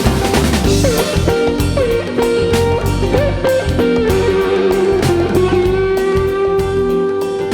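Blues-rock band playing an instrumental passage. An electric guitar leads with bent notes, then holds one long sustained note through the second half over the backing band.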